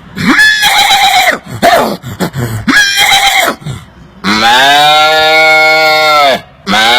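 A man's mouth-made imitation of farm-animal calls: three short calls, then a long drawn-out call held at a steady pitch and a second one starting near the end.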